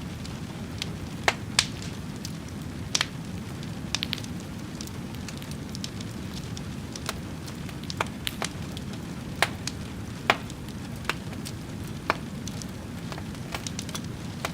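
Wood fire burning with a steady low rumble, crackling and popping with sharp irregular snaps, a few of them louder.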